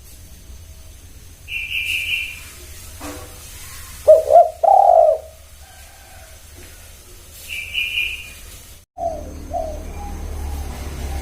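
Spotted dove cooing: a group of low coos about four to five seconds in and two short coos near the end. Twice a short, higher chirp from a small bird breaks in.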